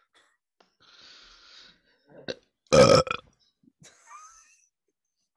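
A person burps once, loudly and briefly, about three seconds in, after a soft breathy hiss.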